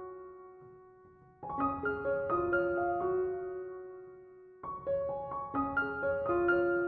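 Background piano music: slow phrases of a few struck notes, each left to ring and fade before the next phrase begins.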